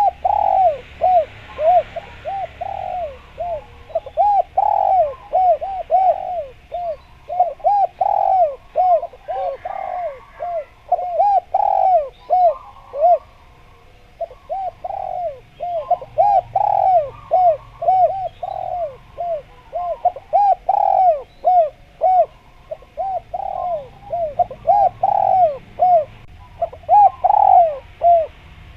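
Spotted dove (derkuku) cooing on and on in fast runs of short rising-and-falling notes, with a brief pause about halfway through.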